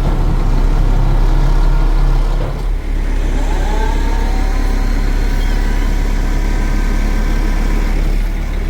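International 4800 bucket truck's engine running. About two and a half seconds in, its low note changes and dips briefly, then settles into a steadier, lower drone with a faint gliding whine.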